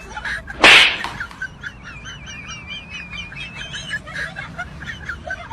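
Birds chirping and twittering continuously. A short, very loud swish-like noise about half a second in is the loudest sound.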